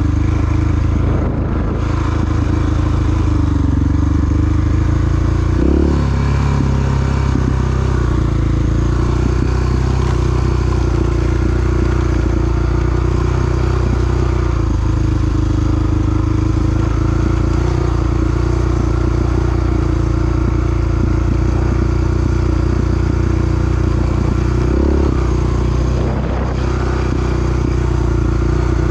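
Single-cylinder four-stroke dual-sport motorcycle engine running steadily under way, its note breaking briefly twice, about six seconds in and again near 25 seconds, as on a gear change.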